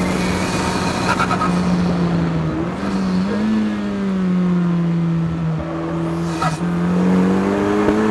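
The Ariel Atom 4's turbocharged Honda Civic Type R four-cylinder running hard at steady revs. The note dips about two and a half seconds in, comes back up, sags slowly, then climbs again near the end as the throttle is worked around the track.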